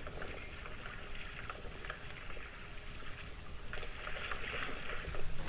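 Water rushing and splashing along the hull of a kayak under sail, swelling and easing unevenly, with a low wind rumble on the microphone.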